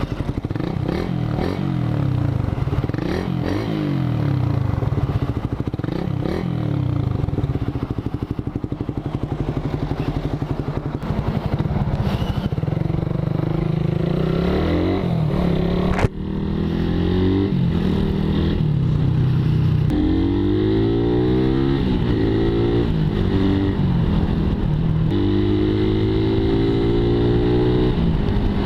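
Suzuki Raider 150's single-cylinder four-stroke engine running through a big-elbow exhaust with no catalytic converter. The revs rise and fall repeatedly, with a sharp click about halfway; after it the pitch climbs again and again in a series of rising pulls.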